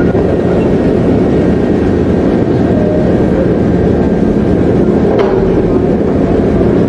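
A loud engine or machine running steadily with a constant low hum, cutting in suddenly.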